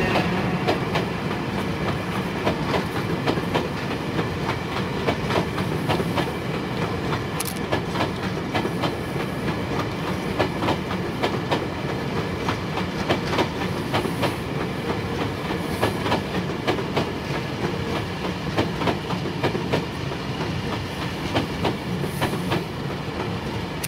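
A long rake of Tobu 50090-series electric cars rolls past, hauled unpowered on a delivery run. Its wheels beat a steady clickety-clack of irregular sharp clicks over a rumble, easing slightly near the end as the last cars go by.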